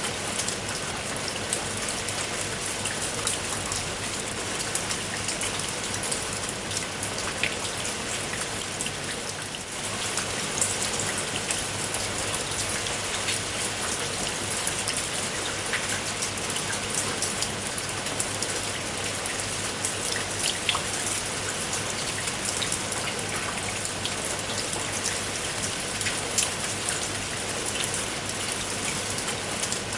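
Steady rain with many individual raindrops pattering and ticking on a surface, briefly softer about nine and a half seconds in.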